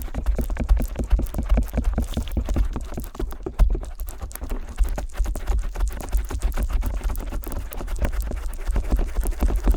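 Stainless-steel ear pick scratching and tapping on a binaural microphone's silicone ear flaps. It makes a rapid, unbroken stream of small crackling taps over a deep handling rumble.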